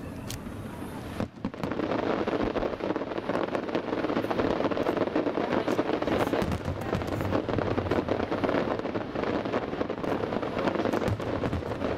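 Fireworks display: after a lower rumble, a dense, continuous crackle of many small bursts sets in abruptly about a second and a half in and keeps going.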